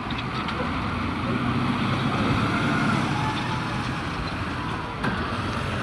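Heavy machinery loading crushed stone into trucks, engines running with a constant low rumble and a faint whine that rises and falls.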